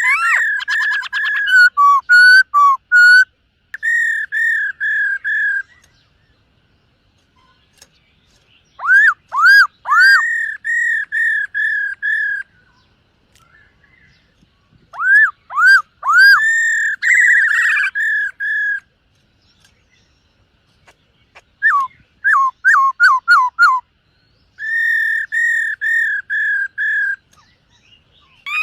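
Black-throated laughingthrush singing loud, clear whistled phrases, each a quick run of repeated slurred notes, in about six bouts with short pauses between them.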